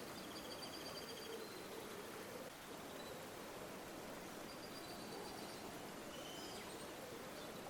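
River water flowing steadily, with a small bird's high, rapid trilled calls twice over it, about a second each, near the start and past the middle.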